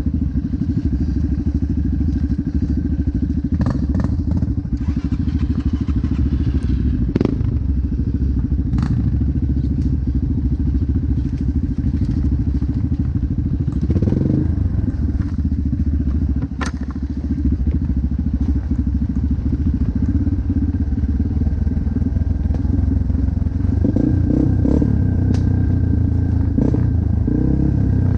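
Motocross bike engine running at a fairly steady pitch, with scattered knocks and clatters.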